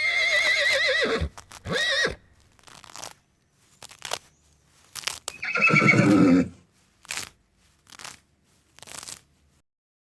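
Horse whinnying: a high, quavering call about a second long that drops in pitch, then a shorter falling call. A lower, rougher call follows about halfway through, with scattered sharp clicks around it.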